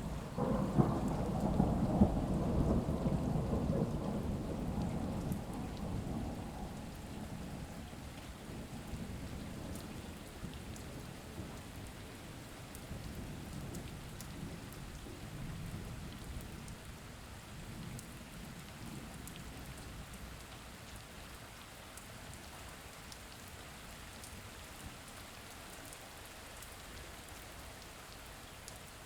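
Steady rain falling, with a roll of thunder right at the start that rumbles loudest for the first few seconds and fades away over about ten seconds.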